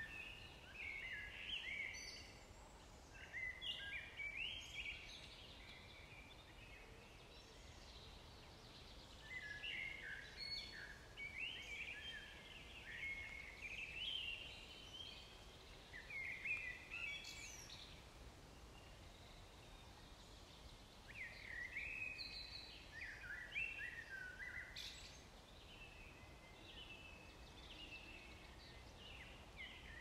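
A songbird singing in short, chirpy phrases with pauses of a few seconds between them, over faint steady outdoor background noise.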